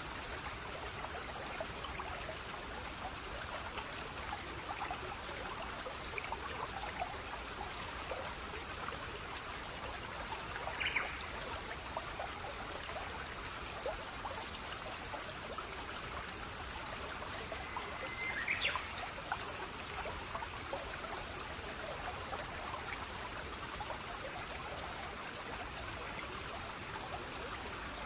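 Running water of a stream, flowing and trickling steadily with many small splashes. Two brief, higher-pitched sounds stand out, about a third and two thirds of the way through.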